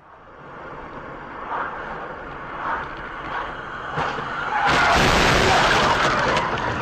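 Vehicle road noise picked up by a dashcam, building gradually. About five seconds in, a sudden loud collision noise holds for around two seconds, then eases off.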